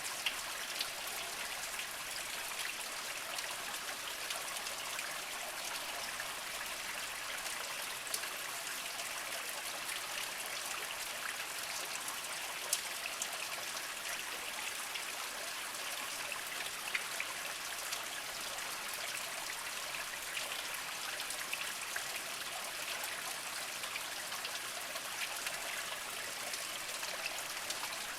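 Small spring trickling steadily over mossy rocks, a continuous light babble with scattered drips and splashes.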